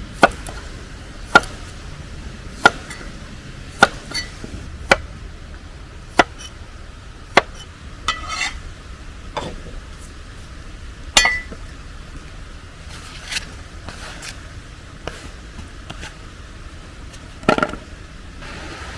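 Kitchen knife chopping on a cutting board at a slow, even pace, about one sharp knock every second and a quarter, each with a slight ring.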